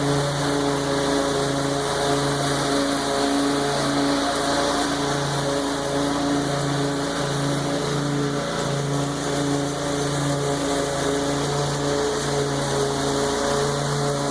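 Lawn mower engine running steadily under load while cutting tall, overgrown grass.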